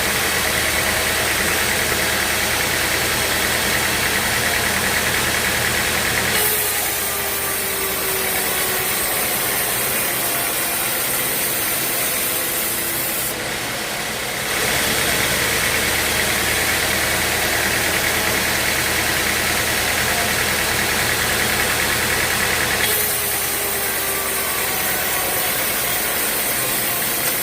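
Sawmill machinery running: a steady motor drone with a low hum. Its tone shifts abruptly three times, with a faint falling whine after two of the shifts.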